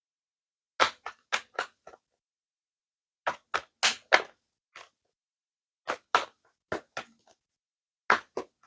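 Handling noise: short sharp taps and clicks in four quick clusters of two to four.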